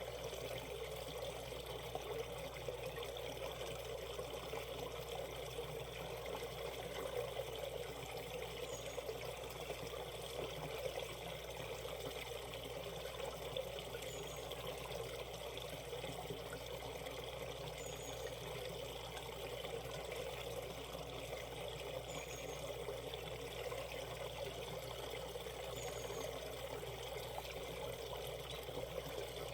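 Valley stream water flowing steadily, an even trickling and splashing of a shallow mountain brook.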